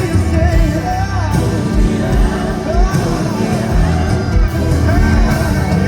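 Live band music in a large concert hall: a voice sings a drawn-out, wordless melody over sustained bass and regular kick-drum beats.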